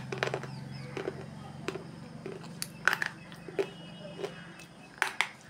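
Crunching and snapping as a dry, hard slate pencil is bitten and chewed: sharp, brittle cracks about once or twice a second, with a louder pair of bites near the end. A steady low hum runs underneath and fades out about two-thirds of the way through.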